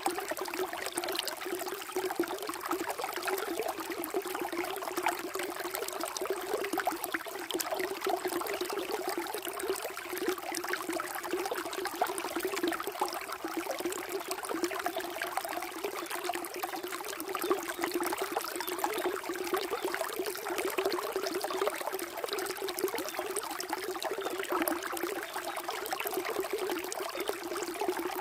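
Running water trickling and babbling steadily.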